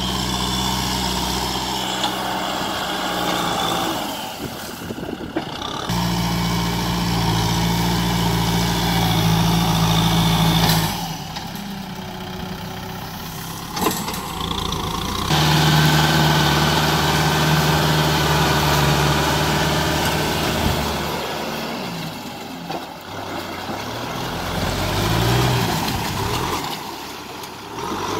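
Kubota M6040SU tractor's diesel engine working under load as the tractor drives through deep mud. The engine speed holds steady for long stretches, drops away in a few quieter spells, and rises and falls near the end.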